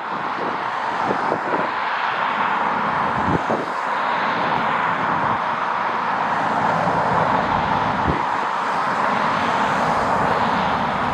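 Steady roar of a jet airliner's engines, with wind gusts buffeting the microphone in low rumbles.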